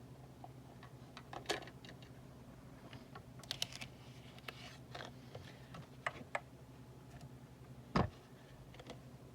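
Light clicks and taps of small craft pieces, a metal die and cardstock, being handled and set down on a tabletop, with one louder knock about eight seconds in, over a faint steady hum.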